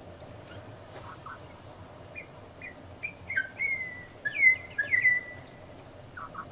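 Birds calling: a few short chirps, then a cluster of louder, sharp down-slurred whistled notes in the middle, and a quick run of about six short lower notes near the end.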